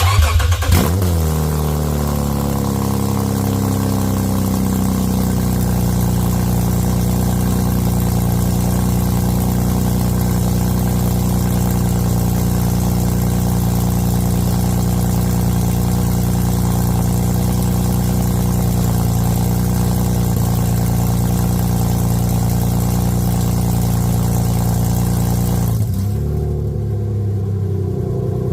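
2007 Lexus IS350's 3.5-litre V6 running on open headers, started cold: it fires with a loud flare, the revs fall over the first few seconds to a steady fast cold idle, and about 26 seconds in the idle drops lower.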